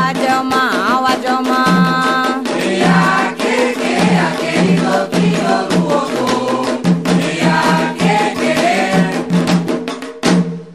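Candomblé ritual chant: voices singing over drums and a rattle keeping a fast steady beat. The music breaks off at the very end.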